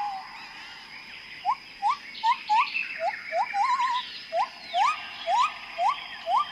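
Animal calls: a run of short whistled notes, each rising in pitch, about two a second starting about a second and a half in, with one longer note that rises and then wavers downward. Fainter high chirps and a steady high whine sit above them.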